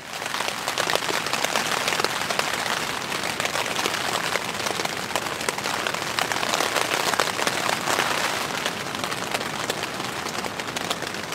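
Rain pattering steadily on tent fabric: a dense, even patter of many fine drops.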